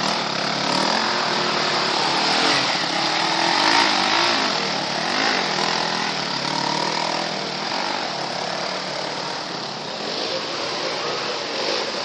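Several motocross motorcycle engines revving up and down at once, their pitches rising and falling over one another with a steady spread of engine noise.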